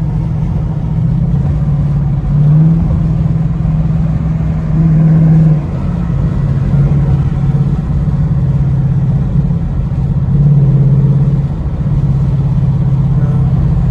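Ford Mustang GT's 5.0 V8 running steadily while cruising, a deep exhaust drone that swells briefly a few times as the throttle is eased on.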